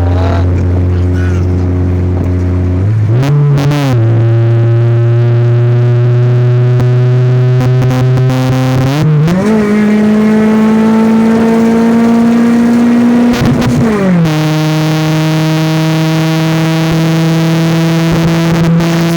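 Sports car engine held at steady revs, its pitch stepping up about three seconds in and again about nine seconds in, creeping slowly higher while held, then dropping to a lower steady pitch about fourteen seconds in.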